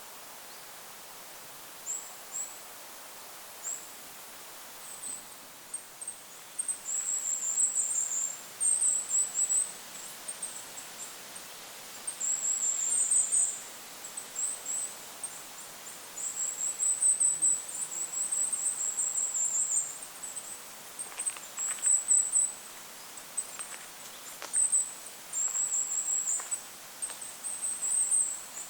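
Goldcrest singing: very high-pitched, rapid phrases of one to two seconds, repeated again and again after a few scattered single notes at first, over a steady wind hiss.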